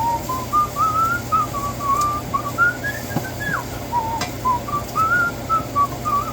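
A person whistling a tune: a clear single-pitch melody of short, connected notes that rise and fall.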